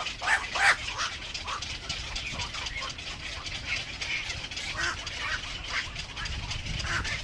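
Birds calling: a series of short, harsh calls, the loudest pair just under a second in, then scattered calls through the rest, over a steady high hiss.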